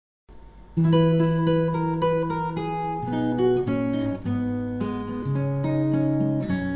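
Background music on acoustic guitar, starting about a second in: strummed chords changing every second or so.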